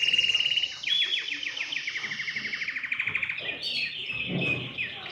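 Domestic canary singing: a chain of rapid trills. Each trill is a string of quick repeated notes, at about ten a second in the middle, and the song moves from one trill to the next every second or two.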